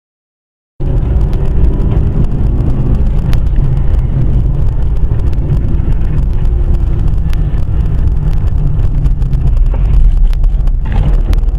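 Car driving, heard from inside: a steady low rumble of engine and road noise that starts abruptly about a second in, after silence, with a few small clicks.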